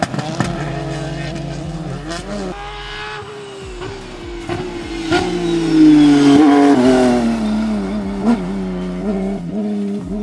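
Rally car engine working hard, the revs falling and picking up again through gear changes, with a few sharp cracks. It is loudest about six seconds in, after which the pitch slides down and then climbs again near the end.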